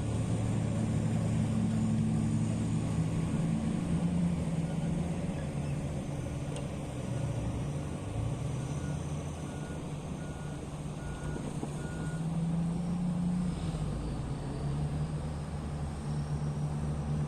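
A heavy diesel mining machine's engine runs, its pitch shifting as the load changes, while its reverse alarm beeps steadily about twice a second. The beeping stops about twelve seconds in.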